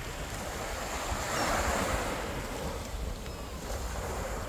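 Sea waves washing onto the shore, swelling about a second and a half in, with wind buffeting the microphone.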